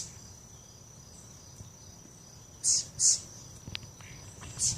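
Small birds giving short, harsh scolding calls, a few raspy notes in quick pairs, alarm calls at a cat. A steady high insect-like drone runs beneath.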